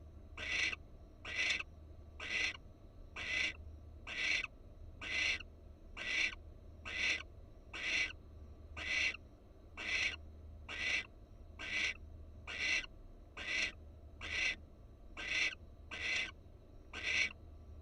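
Barn owl giving a long, regular series of short rasping hiss calls, about one a second, without a break.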